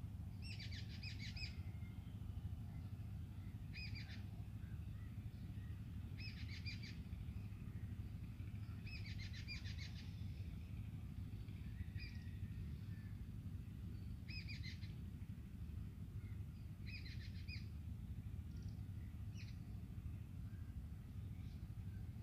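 A small bird chirping: short bursts of quick, rising chirps repeated every two to three seconds, over a steady low hum.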